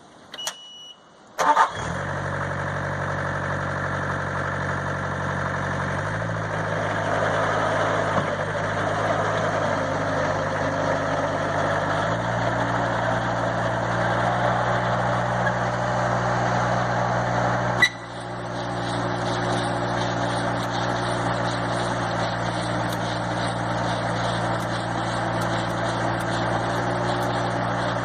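Bobcat 763 skid steer's diesel engine cranking and starting about a second and a half in, just after a short electronic beep, then running steadily. Its speed steps up twice, about six and about twelve seconds in. A sharp click comes near eighteen seconds in, with a brief dip before the engine sound settles again.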